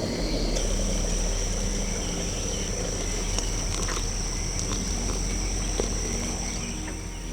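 Insects chorusing in the riverside woods: a steady, high-pitched buzz that steps up in pitch about half a second in and then holds, over a low background rumble.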